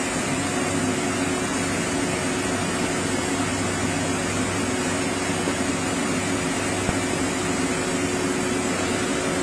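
Heavy-duty CNC router running steadily with no cutting heard: an even mechanical hum with a constant whine.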